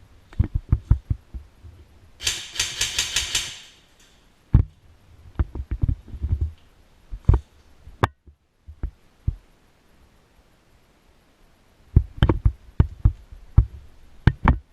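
Airsoft gun firing one rapid full-auto burst of about a second and a half, amid scattered sharp knocks and thumps before and after it, with a cluster of knocks near the end.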